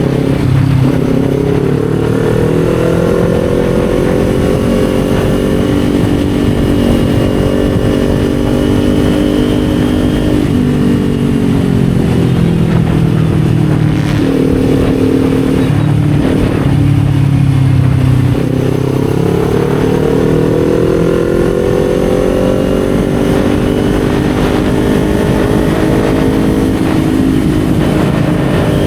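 Kawasaki Z400's parallel-twin engine under way on the road: its note climbs, sags slowly and drops away about ten seconds in, then climbs again from about eighteen seconds in as the rider gets back on the throttle. A steady rush of wind noise runs under it.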